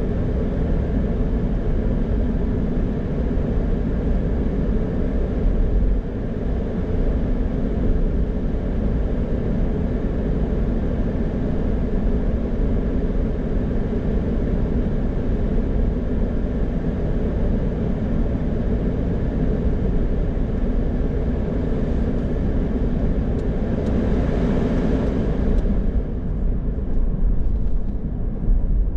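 Car driving on the road: a steady rumble of tyres and engine. A brighter hiss swells and fades briefly near the end.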